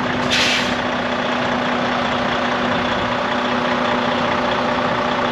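2012 Freightliner Cascadia day cab's Detroit diesel engine idling steadily, with a brief hiss of released air about half a second in.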